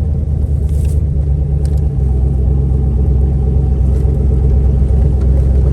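Turbocharged LS V8 engine in a car running steadily with a low, strong drone that changes pitch about two seconds in. The owners suspect the engine has a rod knock.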